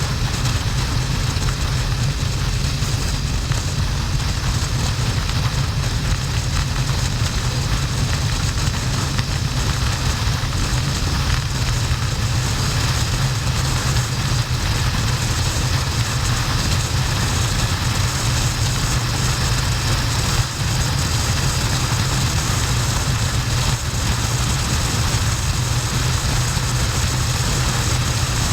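Harley-Davidson XL1200N's V-twin engine and wind rush on the microphone, a steady loud drone as the motorcycle cruises at motorway speed.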